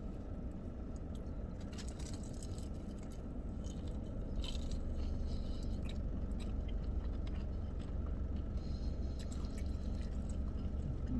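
Chewing a crispy fried chicken tender, with soft crunches and wet mouth sounds. A steady low room hum runs underneath.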